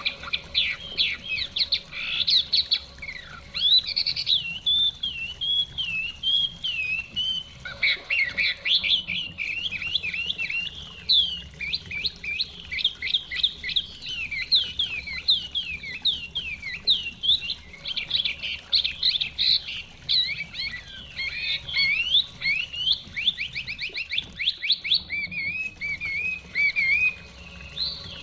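Chinese hwamei singing on and on: a varied song of loud whistled phrases and quick trills with hardly a break.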